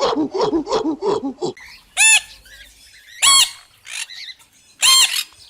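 Animal calls: a rapid run of short calls, about six or seven a second, for the first second and a half, then three loud, high-pitched calls spread over the rest.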